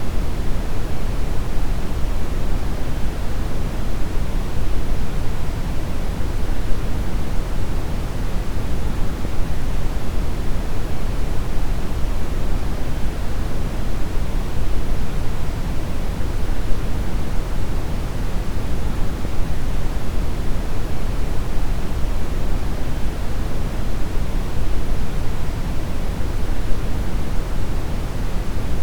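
Steady synthetic brown noise: an even, unchanging rumbling hiss weighted heavily toward the low end, with no tones or events.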